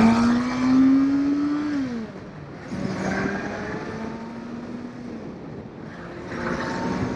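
Motorcycle engine pulling, its pitch rising steadily for about two seconds before dropping off. Two quieter stretches of engine sound follow, one about three seconds in and another near the end.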